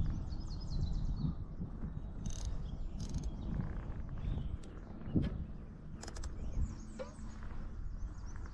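A fishing reel's drag ticking in a few short runs as a large catfish takes line, over low rumbling water and handling noise.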